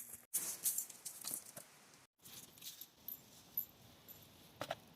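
Faint handling noises: scattered light clicks and rattles, with sharper ticks about half a second in and near the end.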